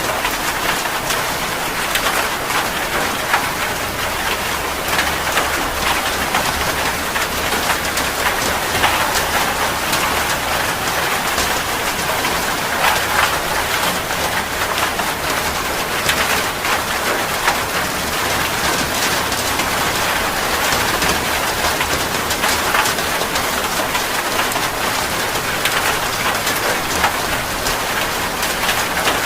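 Heavy rain falling steadily, with many individual drops ticking sharply against a surface close by.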